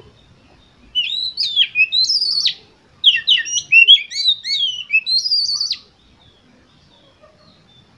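Oriental magpie-robin (kacer) singing: two loud phrases of quick whistled notes that slide up and down, the first about a second in and the second from about three seconds in to near six.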